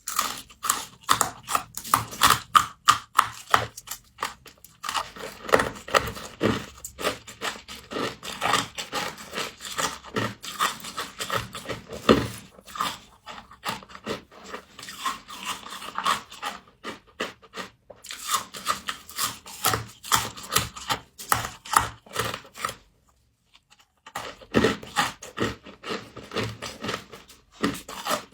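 Close-up eating of humidifier frost: fast, crisp crunching and crackling while biting and chewing, broken by short pauses about a quarter of the way in, just past the middle, and near the end.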